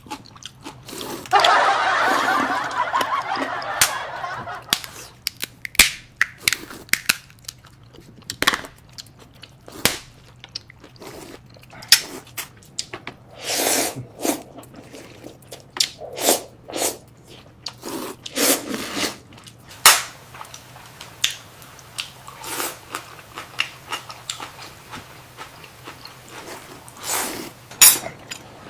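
Close-up eating of seafood: repeated crunching bites and chewing, with short sharp clicks scattered throughout. A dense crackling crunch starts about a second in and lasts around three seconds.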